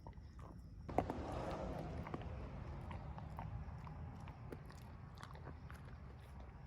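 A dog chewing on a treat: faint, irregular crunching and clicking of teeth.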